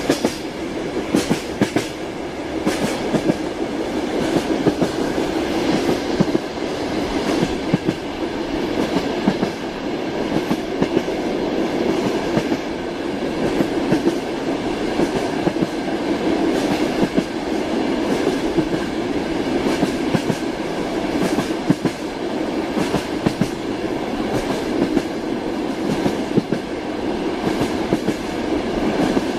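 Train wheels clacking over rail joints, with the steady rumble of a moving train underneath and irregular sharp knocks throughout.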